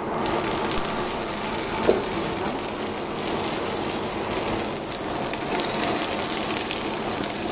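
Blanched leek pieces sizzling in hot olive oil in a frying pan. The sizzle sets in sharply as they go into the pan and grows louder about two-thirds of the way through, with one light knock of a utensil about two seconds in. The leeks were drained well so that they brown rather than stew.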